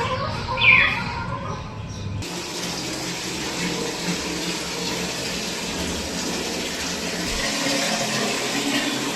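A short falling bird call, then about two seconds in an abrupt change to a steady rush of running water.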